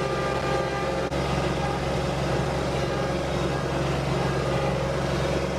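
Vehicle engine idling at a steady low pitch.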